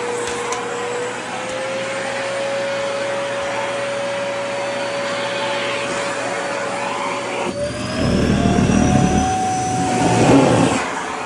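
Vacuum cleaner running with a steady motor whine. About seven and a half seconds in the whine steps up in pitch and a louder rough rumbling joins in for a few seconds, as the dress fabric is drawn against the nozzle.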